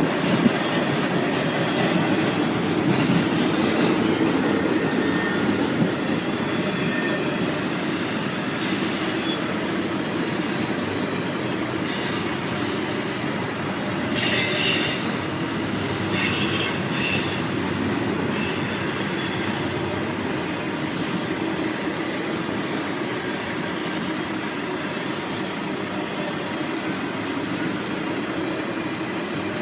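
Norfolk Southern freight train rolling past: a steady rumble of the cars on the rails, with several short, high wheel squeals about halfway through.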